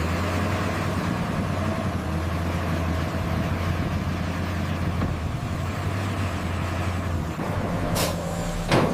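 A vehicle engine running steadily, a low drone with a hiss over it. Two short sharp sounds come near the end.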